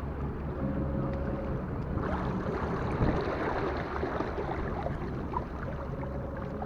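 Inflatable boat on the water under an 8 hp 48 V electric outboard: a steady low hum with a faint level whine, water noise and wind on the microphone, the water noise growing from about two seconds in.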